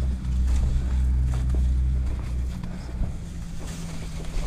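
A car engine idling as a steady low hum that drops off about two and a half seconds in, with a few light knocks.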